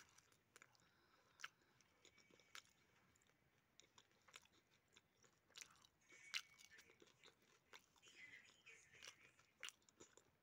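Faint chewing of french fries close to the microphone: irregular soft crunches and sharp crisp clicks scattered through.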